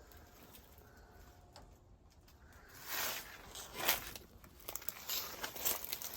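Quiet at first, then irregular rustling and crunching steps starting about three seconds in: someone walking over dry grass and junkyard debris.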